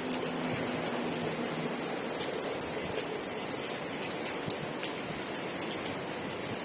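Steady rainfall, an even hiss with scattered sharp drip ticks.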